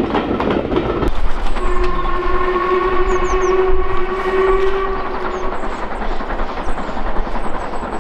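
A train clattering past on the rails stops abruptly about a second in. Then a steam locomotive's whistle blows one long steady note for about four seconds, over a low rumble and faint bird chirps.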